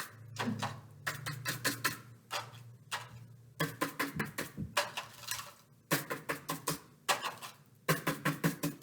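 Pine-needle brush dabbing paint onto paper: bursts of quick taps, about eight a second, each burst lasting about a second with short pauses between.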